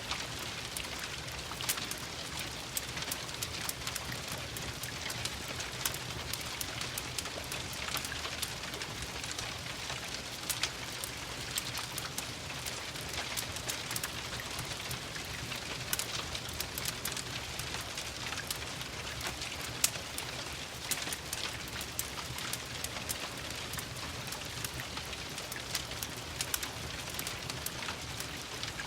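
Steady rain, with many scattered sharp crackles from a wood fire in a fireplace.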